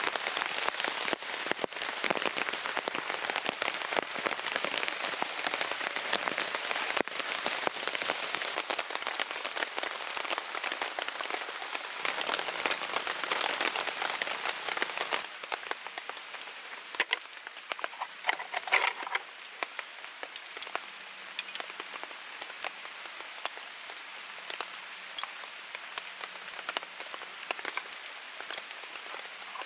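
Rain falling, with dense individual drop impacts on a surface. It is heavier for about the first half, then eases off, and a short sharper sound stands out about two-thirds of the way through.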